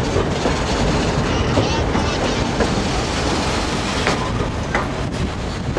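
Narrow-gauge passenger train cars rolling on the rails with a steady rumbling clatter as the train slows for a stop.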